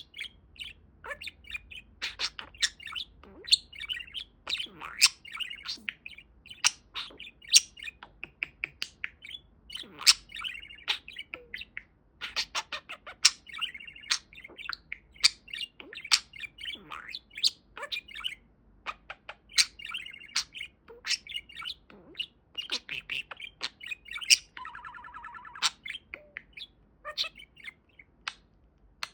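Pet budgerigar warbling and chattering: a busy, steady stream of sharp chirps and clicks mixed with warbled trills, with one buzzy held note near the end.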